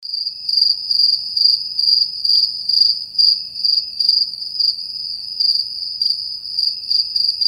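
Cricket-chirping sound effect, the classic awkward-silence gag: a steady high chirping that pulses about twice a second, cutting in abruptly out of dead silence.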